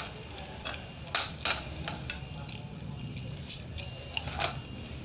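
Eating sounds: short, irregular clinks and scrapes of a spoon on a plate with chewing of fried rice, the loudest two a little after a second in. A steady low hum runs underneath.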